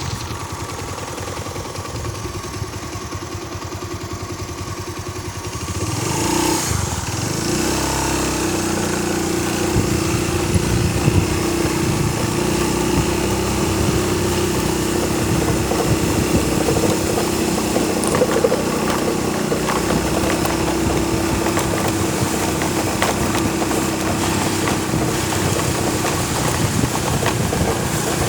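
A small engine running steadily. It grows louder about six seconds in and then holds an even hum.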